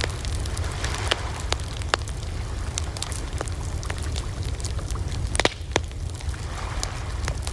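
Wood campfire crackling, with frequent sharp pops and snaps over a low steady rumble; one louder pop about five and a half seconds in.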